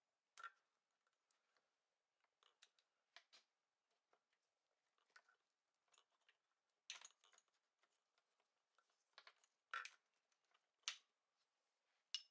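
Faint, irregular small clicks and light taps of tools and small parts being handled at a workbench, a little over a dozen in all, with the sharpest ones about half a second in, around seven, ten and eleven seconds, and just before the end.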